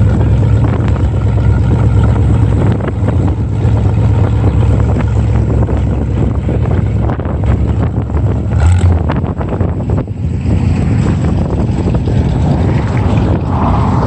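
A car engine idling steadily, with wind buffeting the microphone.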